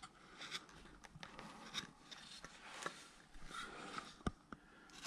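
Hand carving tool cutting into wood: faint, intermittent scraping and scratching strokes with a few sharp little clicks, one about four seconds in.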